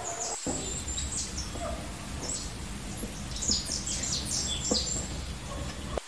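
Small birds chirping in short, high, irregular bursts over a steady low background rumble, with a few faint knocks.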